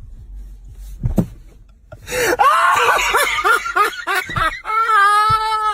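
A single thump about a second in, then loud human laughter from about two seconds, ending in one long held high squeal.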